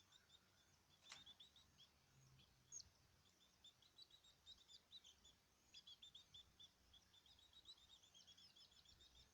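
Caged birds chirping faintly: many short, quick high chirps, busier in the second half, with a single click about a second in.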